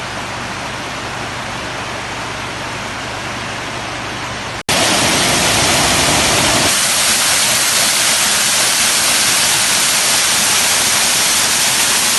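Rushing water of a waterfall, a steady full hiss. About four and a half seconds in it cuts abruptly to a louder, brighter rush.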